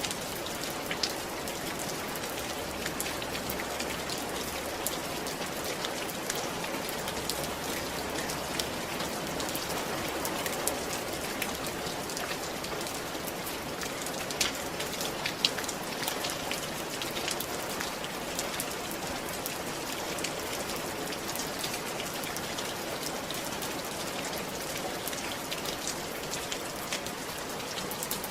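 Steady rain falling on a roof: a continuous patter with many individual drops ticking sharply on top.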